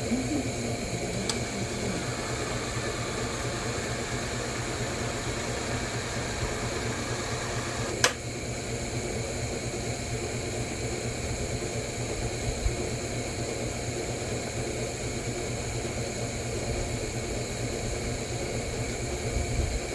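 Steady fan-like mechanical hum, with a faint whine from about two to eight seconds in that ends in a single sharp click.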